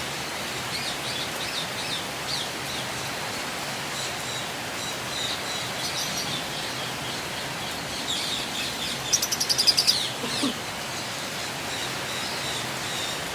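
Flock of lovebirds chirping over a steady background hiss, with a louder run of quick, high chirps about nine seconds in.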